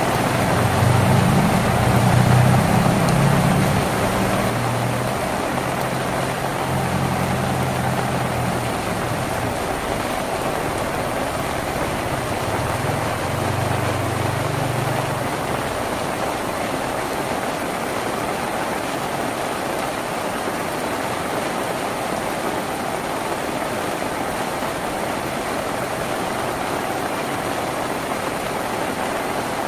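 Steady heavy rain drumming on a tin roof. A low engine hum runs under the rain for the first half and fades out about halfway through.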